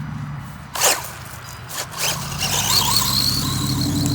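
Electric motor and gears of a WLtoys 124018 RC car, fitted with a stock 144001 motor, whining high as the car drives off, starting a little after two seconds in over a low steady hum. Before that there is a sharp knock about a second in and a few lighter clicks.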